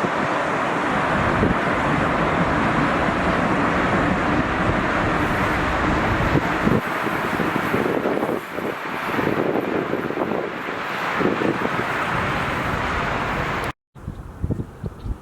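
Jet airliner engine noise, a loud steady rush, with wind buffeting the microphone. Near the end it cuts off suddenly to a quieter, gusty wind background.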